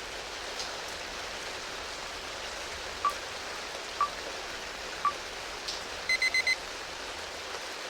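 Steady rain noise with three short electronic countdown beeps a second apart, then a quick run of four higher beeps: the study timer's signal that the session is starting.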